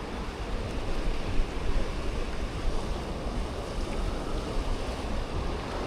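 Sea surf washing on the beach, a steady rushing wash, with wind buffeting the microphone in low gusts.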